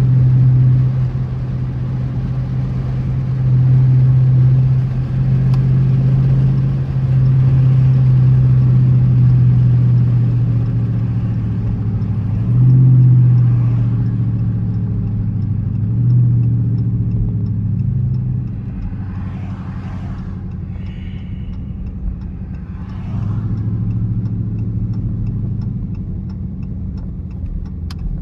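Dodge Charger R/T's 5.7-litre HEMI V8 running while driving, a steady low engine drone with small changes in pitch. It eases off about two-thirds of the way through, then picks up again briefly.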